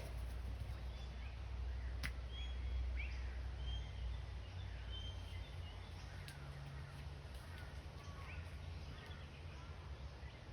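Scattered short, high bird chirps and whistles over a steady low rumble, with a couple of sharp clicks, one about two seconds in.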